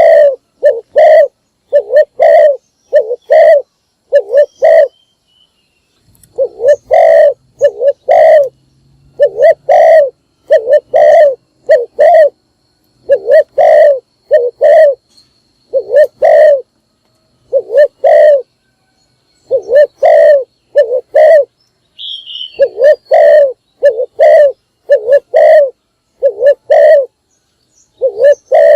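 Spotted dove (chim cu gáy) cooing loudly: runs of several low, hollow coo notes repeated again and again with short pauses between them. It is the kind of decoy-dove call used to lure wild doves.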